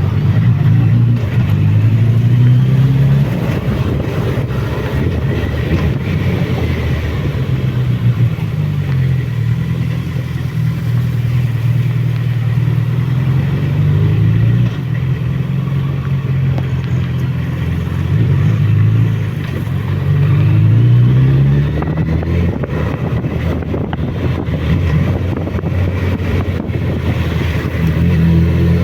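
Suzuki Bandit motorcycle's inline-four engine running under way on a steep downhill ride, its revs rising and falling several times.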